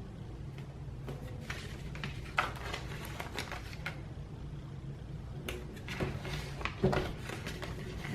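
Stickers being peeled from a sticker sheet and pressed onto planner pages: scattered soft paper rustles and light clicks over a low steady hum.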